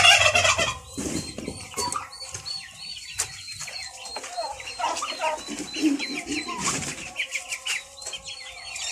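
Backyard poultry calling: a steady run of short high peeps with scattered lower clucks, and a loud squawk right at the start.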